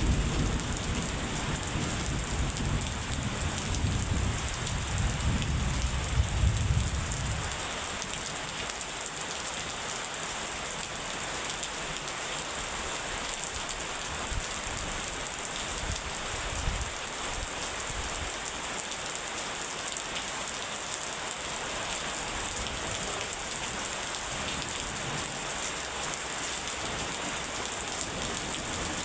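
Steady rain falling, with a low rumble of thunder in the first several seconds that dies away about seven seconds in.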